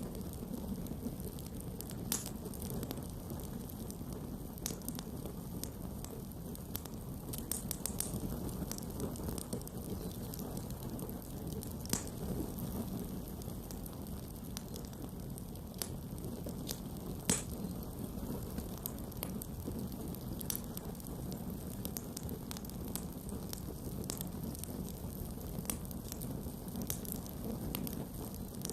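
Campfire burning with a steady low rush of flames and irregular sharp crackles and pops from the wood, the loudest pops about 12 and 17 seconds in.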